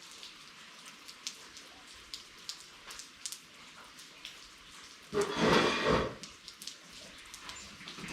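Steady rain hissing, with scattered sharp drip ticks. About five seconds in, a much louder noise lasting about a second stands out over the rain.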